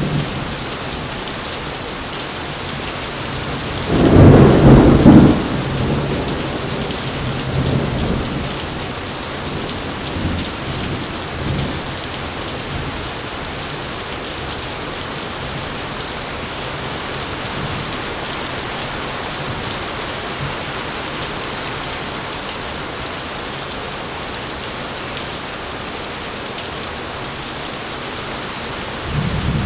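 Heavy rain falling steadily, with a loud rolling thunderclap about four seconds in, fainter rumbles of thunder over the next several seconds, and another rumble starting near the end.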